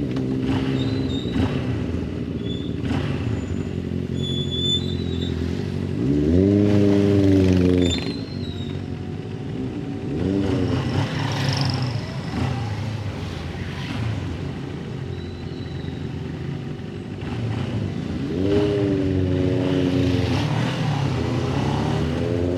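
Motorcycle engine running on the road, its pitch climbing and dropping back four times as the bike accelerates and shifts.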